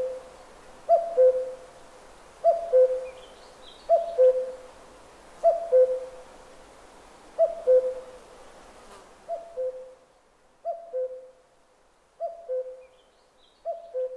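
A bird's two-note hooting call, a short higher note followed by a longer lower one, repeated evenly about every one and a half seconds. A faint high chirp from another bird comes through a couple of times.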